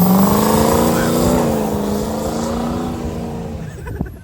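Car engine revved hard and held at high revs for a burnout, its pitch climbing slightly at first and then holding steady, fading away in the last second.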